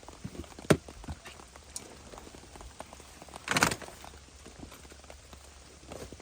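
Rain falling in scattered, irregular drips and ticks, with one sharp tick about a second in and a short, louder rush a little past the middle.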